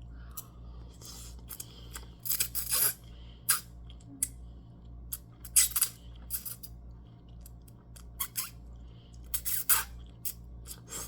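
Cutlery clicking and scraping against a plate or bowl in irregular short strokes, over a steady low hum.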